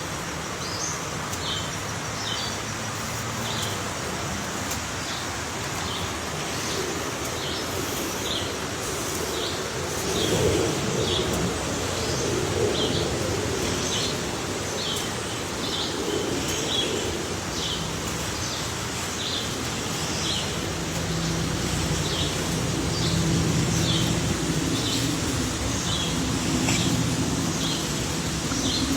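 A bird chirping over and over: short high chirps roughly once a second, over a steady background hiss.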